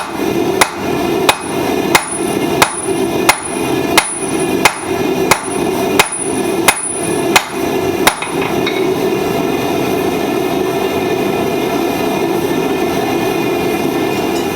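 Blacksmith's hammer striking hot steel on an anvil while forging tongs: about thirteen evenly spaced blows, roughly three every two seconds, stopping about eight seconds in. A steady drone runs underneath and carries on alone after the hammering stops.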